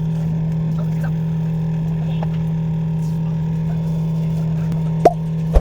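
A steady electric machine hum that holds one low pitch, with two sharp clicks near the end.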